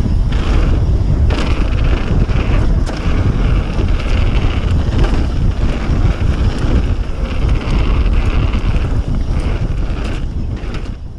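Wind rumbling and buffeting on an action camera's microphone while riding, with scattered clicks and rattles, fading down near the end.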